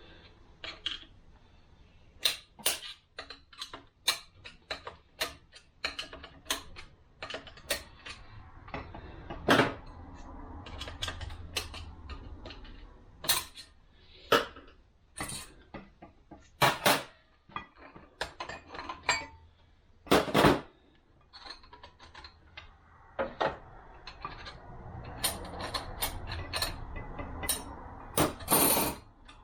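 Metal automatic-transmission parts being handled and fitted on a workbench: irregular sharp clinks and clacks, a few louder knocks, and short stretches of scraping and rubbing between them.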